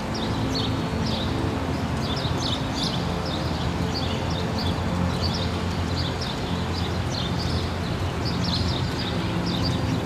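Small birds chirping in short, repeated calls throughout, over sustained low tones of calm background music.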